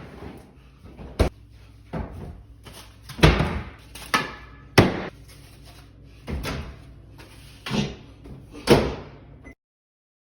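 A running microwave's low hum under a string of about nine loud, irregular bangs and crashes, the comically exaggerated noise of the microwave heating food. It all cuts off abruptly near the end.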